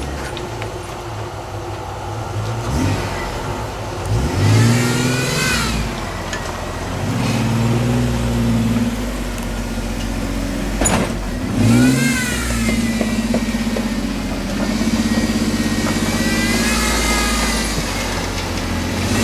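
Off-road 4x4 truck engine revving up and easing off several times, with the engine running steadily between the revs.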